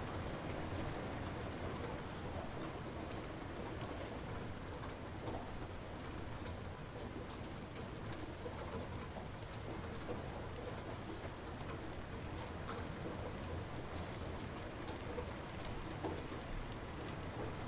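Light rain falling steadily, an even hiss with scattered drop ticks.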